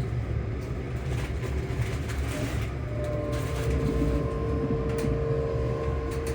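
Inside a ScotRail Class 385 electric multiple unit running between stations: the traction motors hum as steady tones over the low rumble of the wheels and running gear, with a further hum tone coming in about three seconds in.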